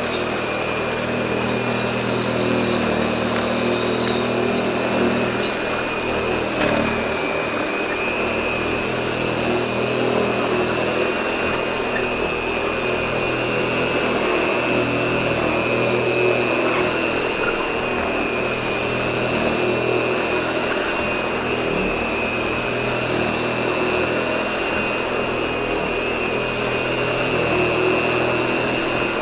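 Hoover model 700 upright vacuum cleaner running steadily, with a steady high whine over a low hum.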